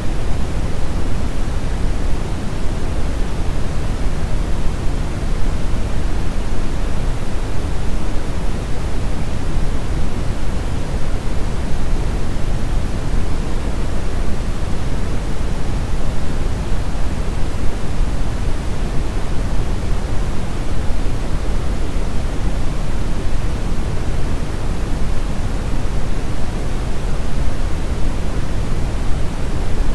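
Steady brown noise: a continuous deep rushing hiss, strongest in the low end and fading toward the highs, without any change.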